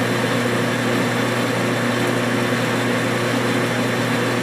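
Metal lathe running steadily while a high-speed steel cutter turns mild steel in a test cut, throwing a long, stringy chip. There is a constant hum from the drive and gears over an even noise from the cut.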